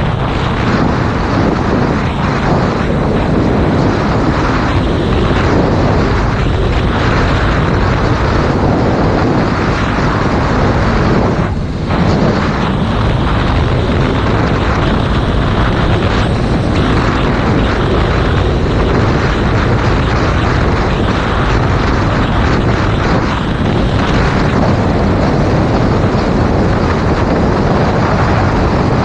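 Heavy, steady wind buffeting on a GoPro Hero 5 Black's microphone at motorcycle riding speed, loud enough to drown out the bike. It eases briefly about twelve seconds in.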